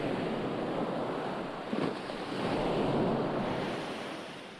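Ocean waves washing onto a shore: a wash of surf that swells, peaks about halfway through, then fades away near the end.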